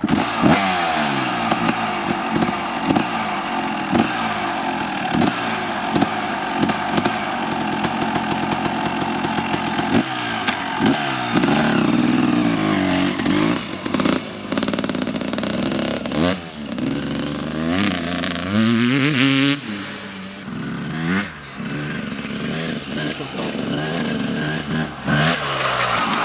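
Suzuki RM250 two-stroke single-cylinder motocross engine being ridden hard, its pitch repeatedly climbing and dropping as it revs through the gears, with quicker rises and falls in the second half.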